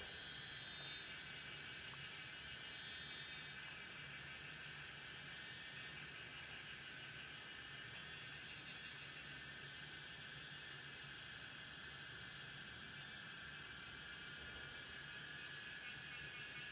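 Steady high hiss with a faint low hum underneath, unchanging throughout.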